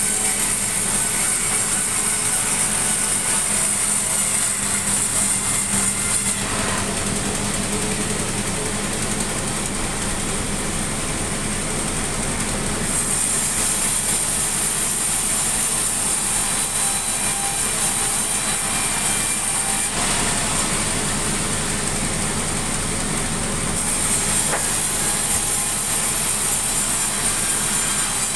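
Sawmill machinery running steadily while sawing a sengon (albizia) log into lumber, a loud continuous mechanical noise whose tone shifts every several seconds.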